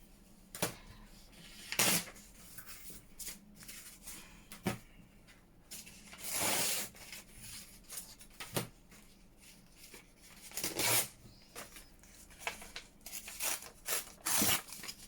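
Paper and craft supplies being handled on a work surface: a series of short rustles, scrapes and taps, with a longer rasping rub about six seconds in.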